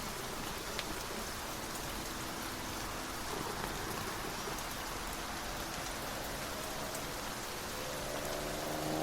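Steady rain falling, an even hiss of drops. Near the end a low steady hum rises in under it.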